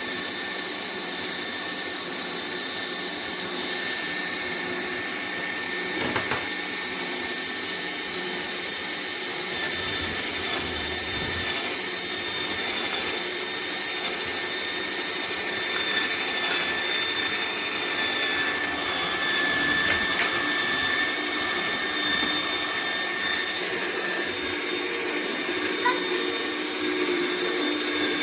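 Electric cold-press juicer running, a steady motor whir with a thin high whine.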